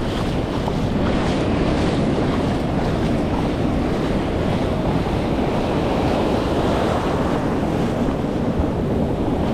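Breaking waves and churning whitewater rushing close around a camera in the surf, a steady loud wash with wind buffeting the microphone.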